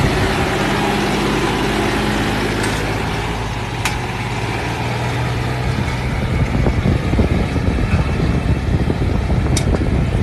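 Diesel tractor engine running under steady throttle, with an even drone at first that turns rougher and more uneven about halfway through.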